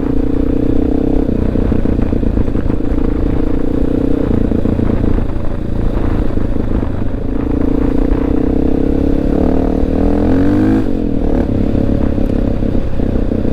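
Honda XR650L dual-sport motorcycle's air-cooled single-cylinder engine running steadily under way, with the engine note rising and falling briefly about ten seconds in.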